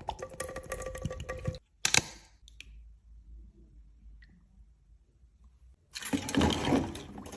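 Close handling sounds: rapid clicking and scratching for about a second and a half, a single sharp click at about two seconds, then a louder burst of scraping about six seconds in.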